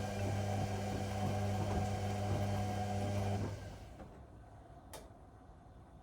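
Whirlpool Indiana 1400 washing machine running with a steady low motor hum over irregular rattling, which stops about three and a half seconds in. A single sharp click comes about five seconds in.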